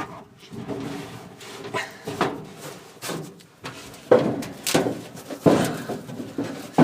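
Irregular knocks, bumps and scrapes from someone working at a furnace and its ductwork in a cramped space, with several sharper, louder knocks in the second half.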